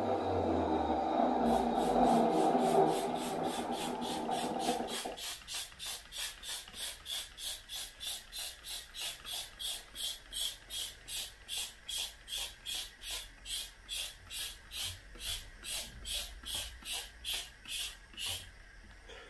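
Wet vacuum cleaner's motor winding down after being switched off, its whir fading out about five seconds in. Steady rhythmic rasping strokes follow, about two and a half a second, and stop near the end.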